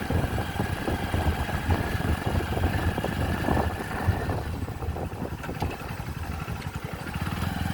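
Motorcycle engine running with a steady, pulsing low rumble.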